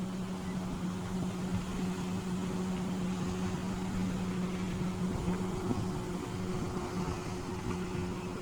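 Boat engine running steadily, an even low hum.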